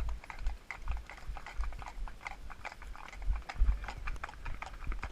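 Horse being ridden: a run of irregular clicks and knocks from its hooves and tack, with low thumps of movement on the rider-mounted camera.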